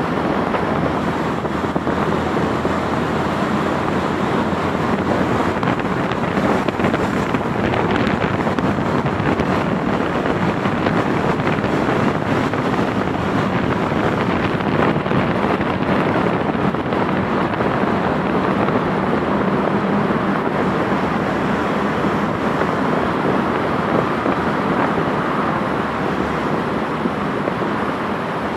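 Steady rushing noise: wind on the microphone together with the sound of a moving vehicle.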